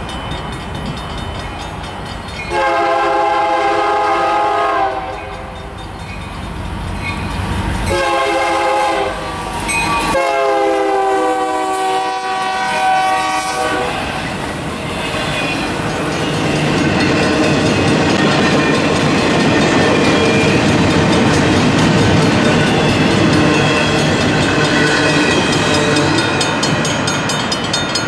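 Freight train's diesel locomotive horn sounding for a grade crossing: a long blast, a short one, then a long one that drops in pitch as the locomotive passes. Then the locomotives and the intermodal well cars rumble past, with wheels clacking over the rail joints.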